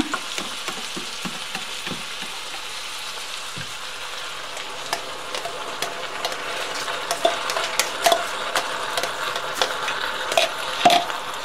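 Diced carrots, onions and bell peppers sizzling in oil in a stainless-steel pot as tomato sauce is stirred in with a wooden spoon. There is a steady sizzle, with frequent knocks and scrapes of the spoon against the pot that come more often in the second half.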